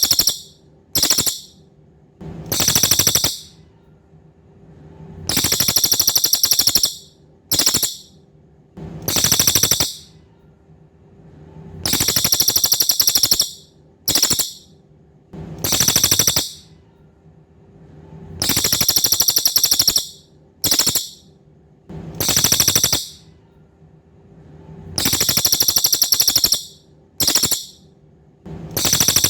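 A cililin songbird singing, repeating one three-part phrase about every three seconds: a long, high, rapidly pulsing buzzy trill, a brief clipped note, then a shorter trill.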